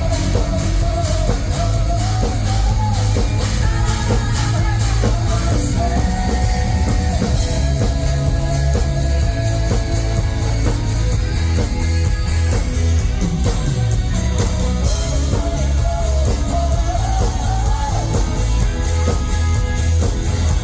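Rock band playing live with singing over a steady drum beat.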